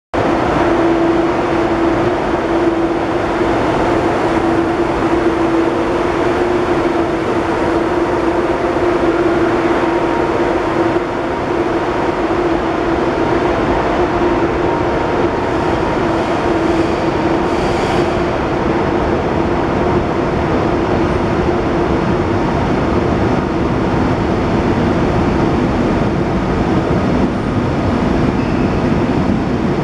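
Deutsche Bahn ICE high-speed train moving past along a station platform, its running noise steady and even, with a constant hum.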